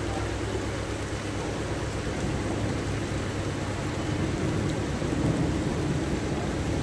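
Steady rushing noise of a heavy rainstorm and water in a flooded street, with a low rumble underneath; it grows a little louder about five seconds in.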